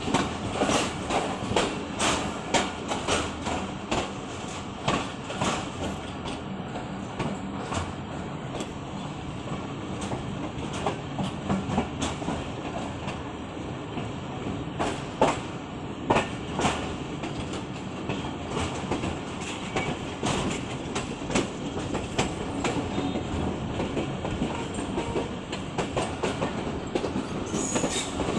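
Passenger train running along the track: a steady rumble with the wheels clacking over rail joints, the sharp clacks coming thickest near the start and again about halfway through.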